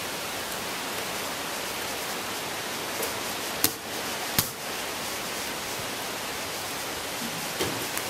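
Steady hiss of heavy rain, with two sharp knocks about halfway through and a fainter one near the end.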